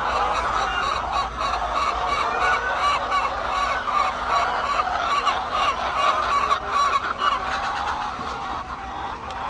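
A large flock of laying hens calling all at once: a dense, continuous chorus of many overlapping clucks and calls with no single bird standing out.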